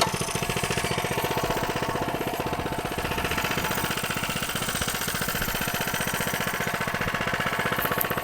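Coleman CC100X minibike's 100cc four-stroke, lawnmower-type single-cylinder engine running at a steady speed, with a rapid, even putter.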